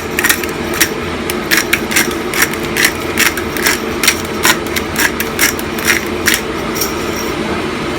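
Sharp, irregular kitchen clicks and clinks, a few a second, from seasoning and handling a pot of cooking soup, stopping about six seconds in, over a steady low hum.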